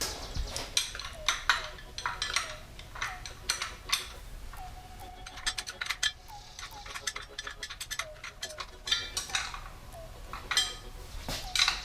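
A hand wrench working the bolts of a front engine mount: sharp metallic clicks and clinks in short runs, scattered irregularly.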